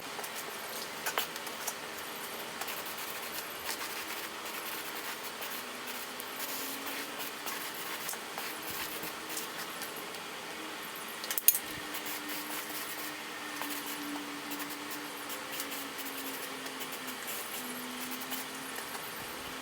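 Quiet room background with scattered small clicks and taps, one sharper click a little past halfway, over a faint wavering hum.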